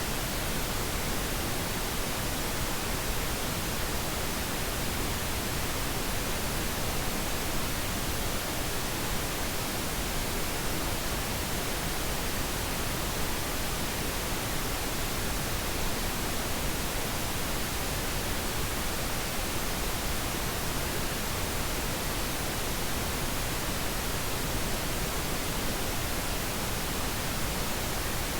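Steady synthetic pink noise: an even, unchanging hiss spread across the whole range, with no tones or events.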